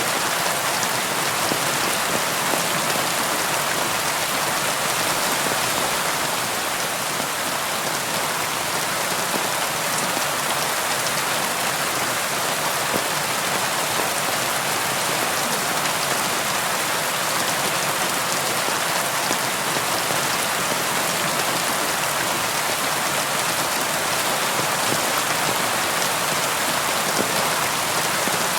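Steady rainfall, a constant hiss of rain with scattered drops pattering on a surface.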